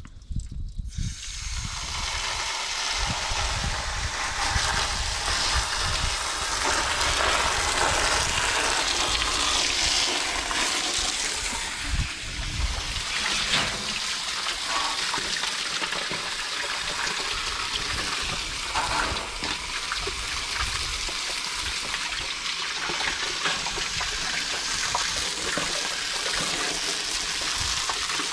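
Garden hose nozzle spraying water onto an air-conditioner condenser coil, washing the dirt out of the fins: a steady hiss of spray that starts about half a second in.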